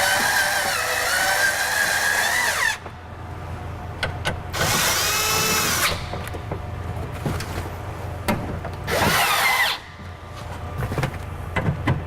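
Power drill/driver spinning in three separate runs, its motor whine rising and falling in pitch, as it runs in the window regulator's mounting bolts. The first run stops about three seconds in, and the other two are shorter.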